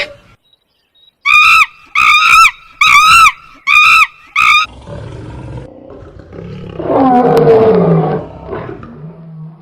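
Animal calls: a quick string of about eight short, high, arching calls, then a long, low, rough call that builds and fades.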